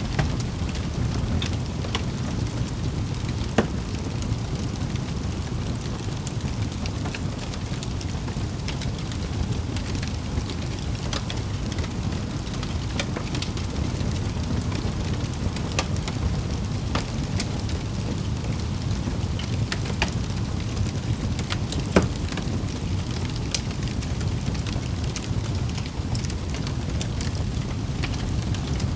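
Wood fire crackling in a fireplace: a steady low rumble of burning with many small crackles throughout. Two sharper pops stand out, one about three and a half seconds in and one a little past twenty seconds.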